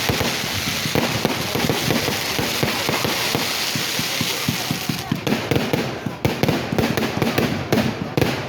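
Fireworks going off in a rapid crackling barrage of sharp bangs, with a hiss over the first half, then separate cracks in quick succession from about five seconds in.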